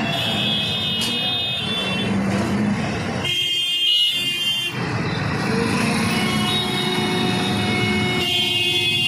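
Busy city street traffic heard from a moving bike, with vehicle horns sounding several times.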